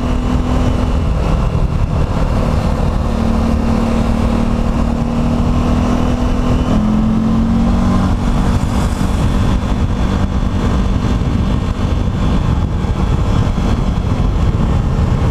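Vehicle engine running while driving, over a steady low rumble, its pitch shifting up and down a few times with speed.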